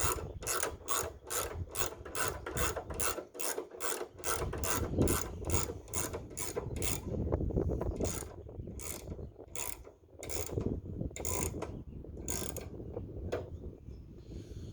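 Ratchet wrench clicking steadily, about three clicks a second, as the new band blade on a Wood-Mizer LX25 sawmill is tensioned; about halfway through the clicks slow to single, spaced strokes.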